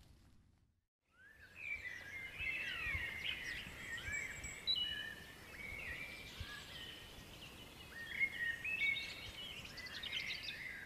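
Several small birds chirping, with quick overlapping rising and falling calls that start after a brief silence about a second in, over a low steady background noise.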